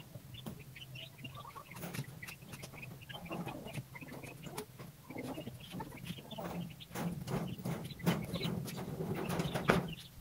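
Chickens clucking, busier and louder in the second half, with several short sharp knocks among the calls.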